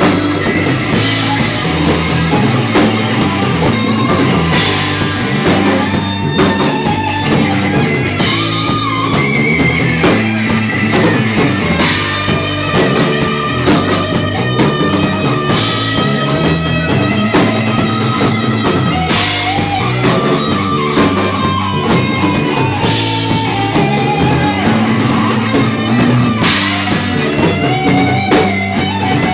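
Live rock band playing an instrumental passage: a lead electric guitar line with bent notes over bass and a drum kit, with a cymbal crash about every four seconds.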